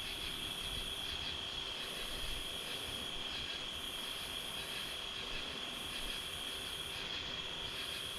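Night insect chorus: a steady high-pitched trill, with a higher buzz above it that swells and fades in a regular cycle every second or two.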